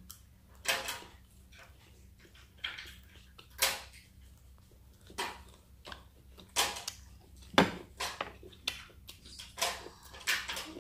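Close-miked chewing of squid: irregular wet mouth clicks and smacks, with one sharper click about two-thirds of the way through.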